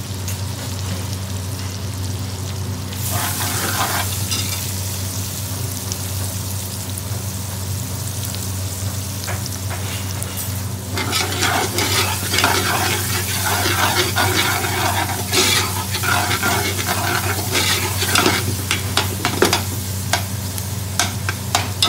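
Sliced onions and green peppers frying in oil in a large aluminium pot, sizzling steadily, while a metal spoon stirs them; from about halfway on the spoon scrapes and clinks against the pot many times. A steady low hum runs underneath.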